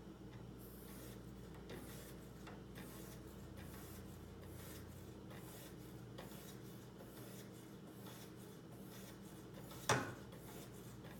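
Strop on a guided knife-sharpening system drawn downward along a kitchen knife's edge in faint, repeated rubbing strokes: the final stropping that knocks the last burrs off the edge. One sharp knock about ten seconds in.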